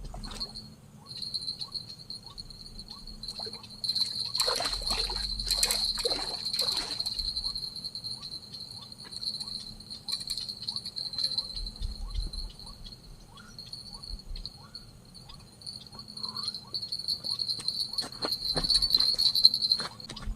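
Insects trilling steadily on one high pitch, getting louder near the end. Scattered clicks run throughout, with a burst of louder knocks and rattles about four to seven seconds in.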